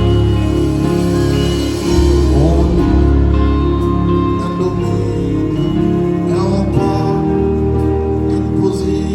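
Live gospel worship music: a band playing sustained chords over a steady bass, with some singing.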